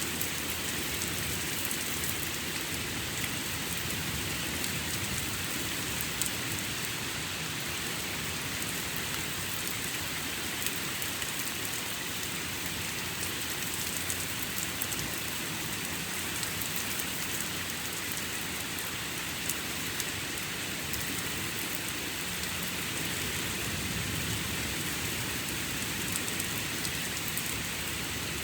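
Steady heavy rain during a thunderstorm, pattering on surfaces with many small drop ticks.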